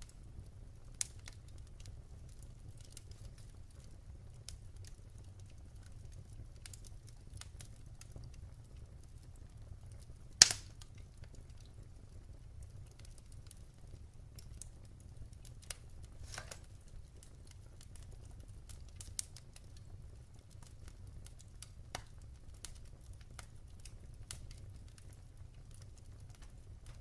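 Wood fire crackling in a fireplace: irregular small pops and snaps over a low steady rumble, with one loud pop about ten seconds in.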